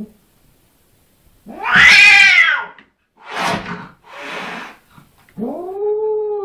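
Domestic cat caterwauling in anger at its own reflection in a mirror. There is a loud, screeching yowl about a second and a half in, then two short hisses, then a low drawn-out growling yowl that starts near the end and rises.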